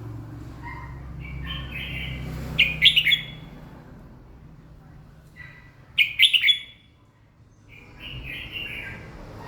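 Red-whiskered bulbul singing in short, clear, chirping phrases, with two loud bursts about three and six seconds in and softer phrases between. A low hum runs under the first half.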